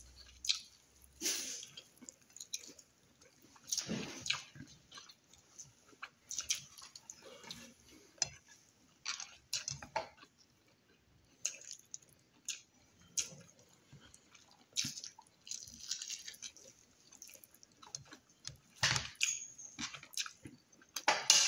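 A person chewing and lip-smacking on fatty pork hock, wet mouth sounds in irregular bursts with pauses between bites.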